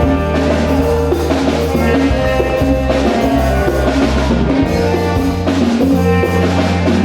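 Church band music with a drum kit keeping a steady beat over bass and keyboard chords.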